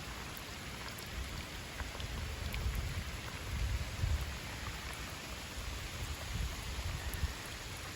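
Pouring rain falling, a steady hiss of drops with a few faint ticks, over an uneven low rumble.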